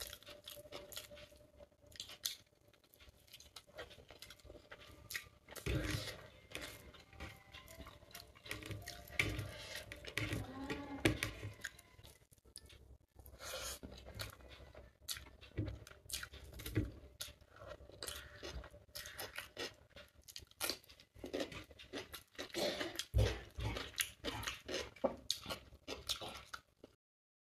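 Close-up eating sounds of chicken biryani being eaten by hand: chewing and crunching, with irregular clicks and soft thumps as fingers work the rice and chicken on the plate. The sound cuts off abruptly near the end.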